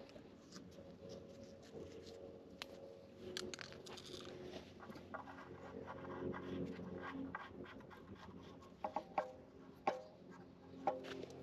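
Scattered small clicks and scrapes of objects being handled, over a faint steady hum, with a few sharper clicks near the end.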